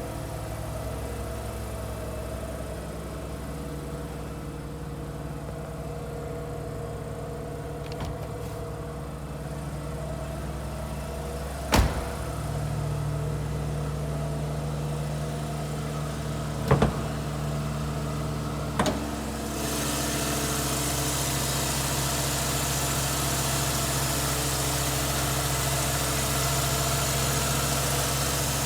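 1987 Mazda RX-7's 13B twin-rotor rotary engine idling steadily on a cold-start fast idle while it warms up. Three sharp clicks cut in over the idle, and a steady hiss joins about two-thirds of the way through.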